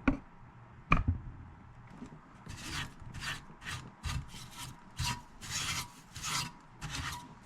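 A disinfecting wipe being rubbed back and forth inside a stereo receiver's chassis, in short scratchy strokes about twice a second, after two sharp knocks in the first second.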